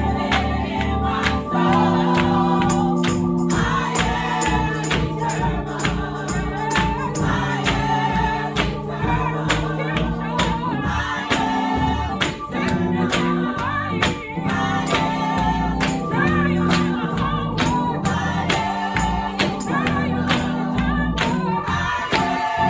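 Gospel music in a church service: a choir and congregation singing over sustained low instrumental notes, with a steady percussion beat.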